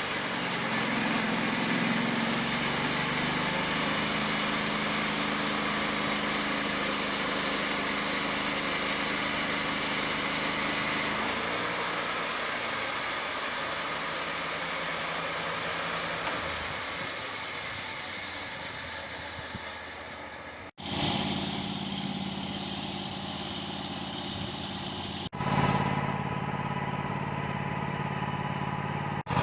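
Wood-Mizer LT35 band sawmill running, its engine under load and the band blade hissing through a log. About two-thirds through the sound breaks off abruptly twice, and after that the engine runs on more quietly, with much less of the cutting hiss.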